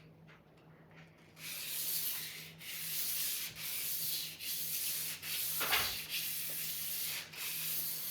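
A sword blade being sharpened with an abrasive: a run of about seven long scraping strokes, each about a second, with brief breaks between them. A dull knock comes a bit past the middle.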